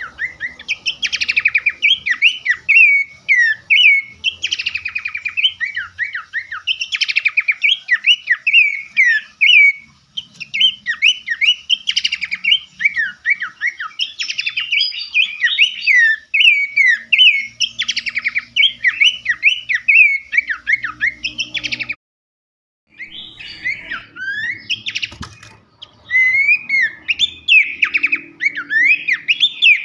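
Songbird masteran (song-tutor) recording: dense, rapid chirping and sweeping whistled notes, loud and nearly continuous. It breaks off for about a second a little past two-thirds of the way through, then resumes.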